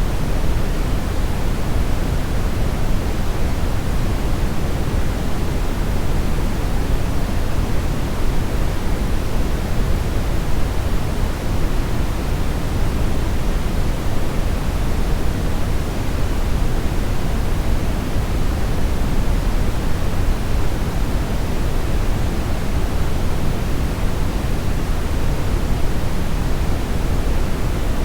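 Steady brown-ish noise: a continuous, even rush with its weight in the low end, unchanging throughout.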